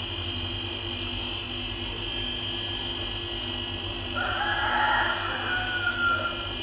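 A bird's long call about four seconds in: it swells, holds for about two seconds, then falls in pitch and stops. Under it runs a steady high-pitched drone.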